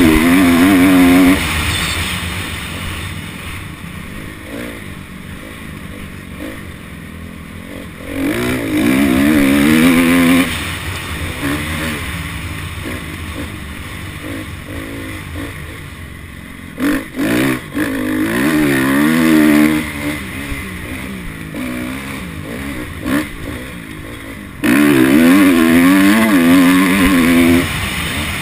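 Honda CRF250 dirt bike's single-cylinder four-stroke engine ridden around a motocross track: several hard bursts of throttle with the revs wavering up and down, between quieter off-throttle stretches, over steady wind and riding noise.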